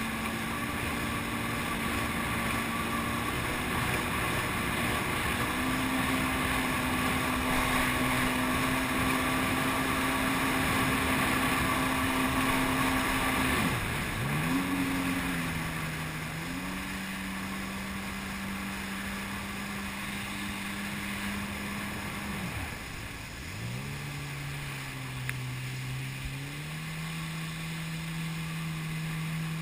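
Jet ski engine running steadily at speed. Twice, about halfway and again later, its pitch drops sharply and climbs back as the throttle is let off and reopened, settling a little lower each time.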